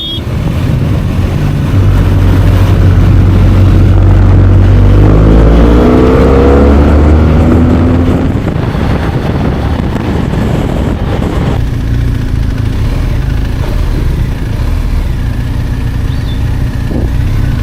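Motorcycle engine running on the road under a heavy low rumble, rising in pitch as it accelerates about five to eight seconds in, then settling to a steadier, lower level.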